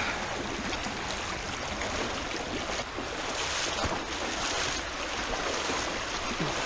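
Rushing floodwater of a rain-swollen creek, with splashing as someone wades through it, a little louder from about three to five seconds in.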